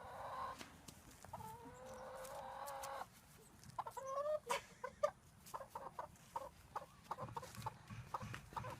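A chicken calling: several drawn-out, steady-pitched calls, one held for nearly two seconds, then a quick run of short clucks in the second half.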